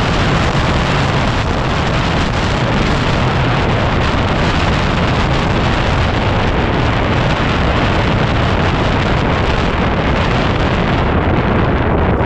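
Heavy wind buffeting on the microphone of a moving dual-sport motorcycle, a steady rumbling rush that nearly buries the 2010 Yamaha WR250R's single-cylinder engine running underneath.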